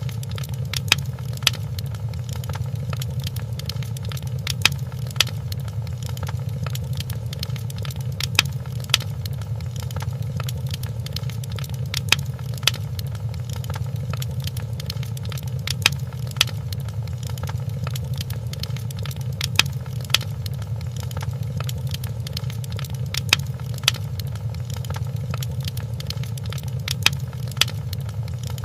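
Fireplace fire crackling over a steady low rumble, with sharp pops in pairs that repeat at even spacing, about every three and a half to four seconds, like a short repeating loop.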